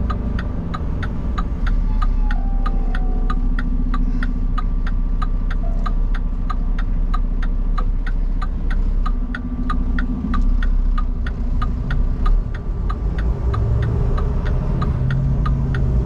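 Turn-signal flasher in a semi-truck cab ticking steadily, about three clicks a second, over the low steady running of the truck's diesel engine.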